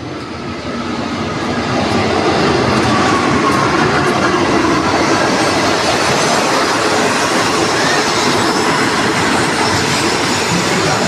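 A passenger train running into a station, its wheels rumbling and rattling over the rails; the noise swells over the first two seconds as it comes close, then holds loud and steady.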